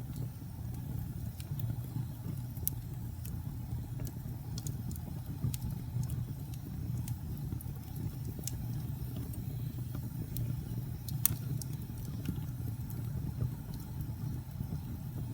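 Wood fire burning in a fireplace: a steady low rumble with scattered sharp crackles and pops, one louder pop about eleven seconds in.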